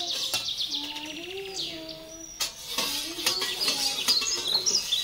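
Small birds chirping and twittering, with quick trilled runs of high notes. Beneath them runs a low wavering tone, and a few sharp clicks come about halfway through.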